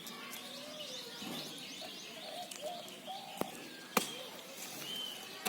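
Birds chirping, with faint voices in the background and two sharp clicks, one about three and a half seconds in and one about four seconds in.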